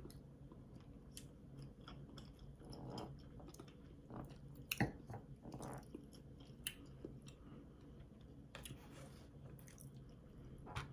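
Faint close-miked chewing and wet mouth sounds of people eating, with scattered small clicks and one sharper click about five seconds in.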